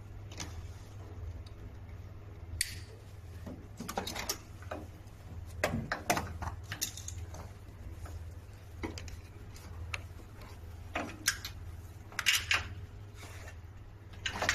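Irregular clicks and light clanks of tools and metal parts being handled while machine wiring is taken apart, over a steady low hum.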